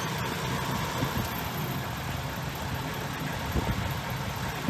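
Heavy construction machine's diesel engine running steadily, with a couple of brief knocks.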